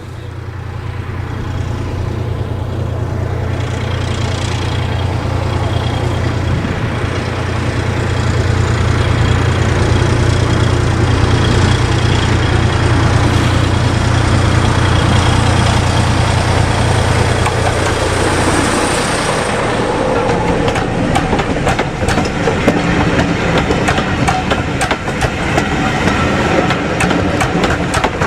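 Diesel train approaching and passing. A steady low engine drone builds in loudness, then about two-thirds of the way through it gives way to a fast, irregular clatter of wheels over the track.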